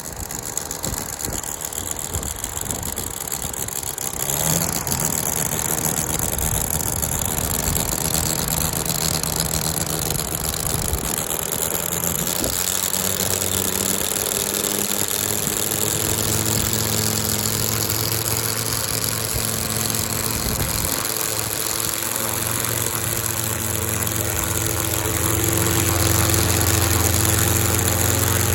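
Five-cylinder UML-160 model rotary engine, running on methanol glow fuel and turning a large propeller, picks up over the first few seconds and then runs steadily. It gets a step louder about 25 seconds in as the throttle is opened.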